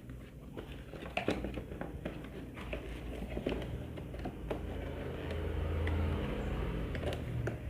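Soundbar packaging and box contents being handled: scattered clicks, taps and rustles over a low rumble.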